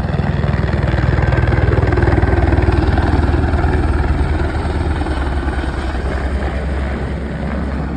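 An engine running loudly with a rapid low throb, swelling a couple of seconds in and easing off toward the end.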